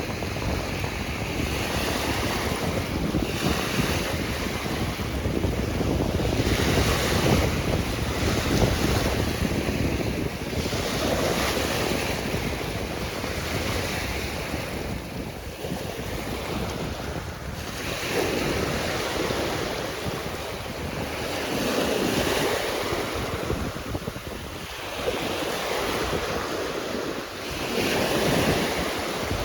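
Sea waves washing in and breaking, a steady rush that swells every few seconds, with wind buffeting the microphone.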